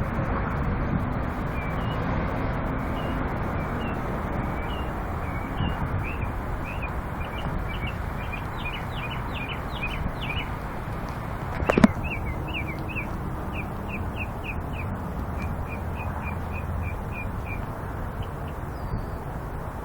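A songbird singing series of short, quick chirping notes that speed up into trills. A sharp knock comes about halfway through, over a steady background rumble.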